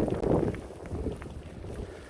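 Wind buffeting the microphone while riding a bicycle off-road, with small clicks and rattles throughout; the buffeting is loudest in the first half-second.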